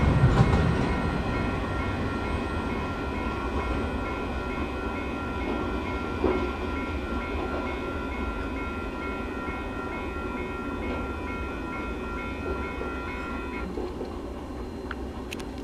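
Rumble and wheel clatter of the last cars of an empty wind-turbine freight train, fading as they roll away from the crossing. Over it the grade-crossing warning bells ring steadily, then stop abruptly near the end as the crossing clears.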